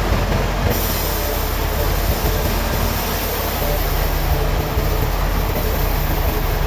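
Heavy machinery running steadily with a low hum under a loud, even noise; the high-pitched hiss grows brighter about a second in.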